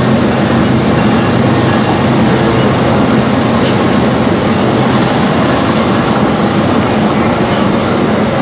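Train running on rails: a loud, steady rolling rumble with a low, steady hum underneath.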